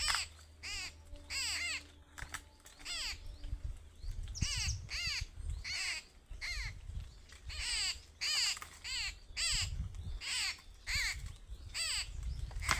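Harsh bird calls repeated over and over, one or two a second, each short call dropping in pitch, over a low rumble.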